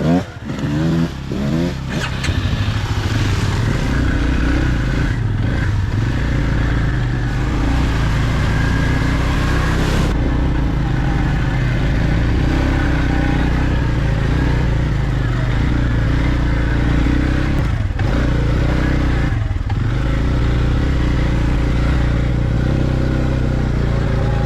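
Off-road vehicle engine revving up and down for the first couple of seconds, then running steadily at an even pitch under load on a trail climb.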